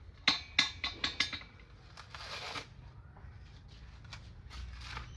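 A quick run of about six sharp clicks or taps in the first second and a half, followed by a short scraping rustle about two seconds in.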